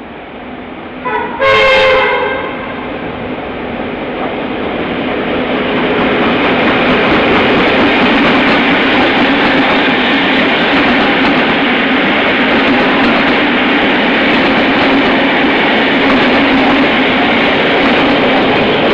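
Clyde Engineering T class diesel-electric locomotive sounding a short multi-tone horn blast about a second in, then the train's running noise grows louder over a few seconds and stays loud and steady as it goes by.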